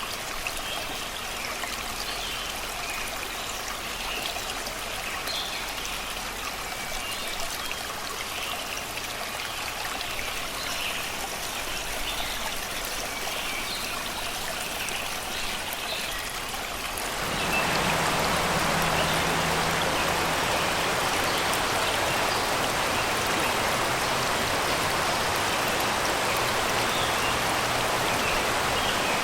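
Shallow river rushing over rocks, a steady wash of water, with small birds chirping over the first part. About two-thirds of the way through, the water sound suddenly becomes louder and fuller.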